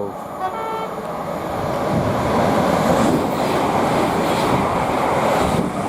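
Siemens Class 700 Thameslink electric train passing at speed: a rush of wheel and air noise that swells over the first few seconds and holds, with wind on the microphone. A brief steady electric tone sounds about half a second in.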